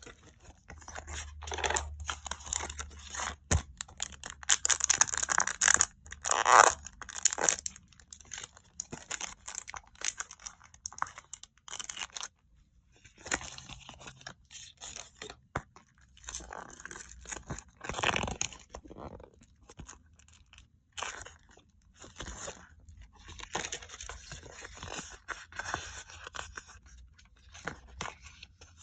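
Packaging being opened by hand: irregular crinkling, rustling and tearing of paper and plastic wrapping around stickers, in stops and starts.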